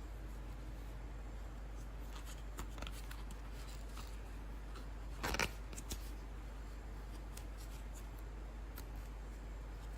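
Plastic toy packaging being handled: scattered light clicks and crinkles, with one louder crackle about five seconds in.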